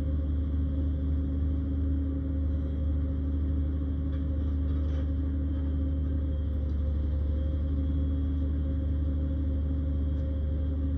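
Engine of a log-grapple crane running steadily at constant speed: a deep, even drone with a steady hum over it.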